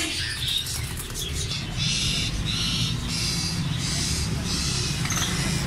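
Caged birds calling in a bird market, a repeated call about twice a second in the latter part, over a steady low rumble.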